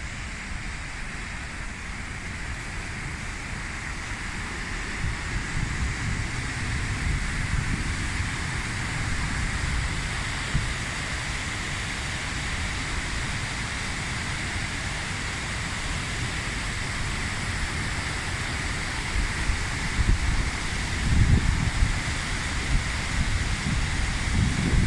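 Wind buffeting the microphone in uneven low gusts over a steady rushing hiss; the buffeting grows stronger near the end.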